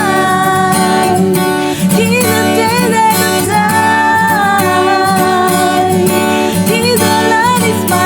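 Acoustic guitar played with a voice singing a slow melody over it, in long held notes with a light waver.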